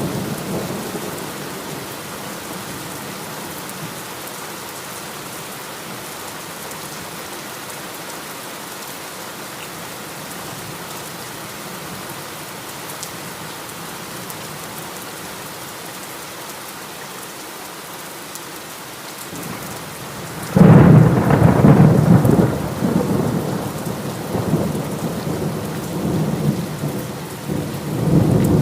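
Heavy rain falling steadily during a thunderstorm. A rumble of thunder fades in the first second or two, then a sudden loud thunderclap breaks about two-thirds of the way through and keeps rumbling to the end.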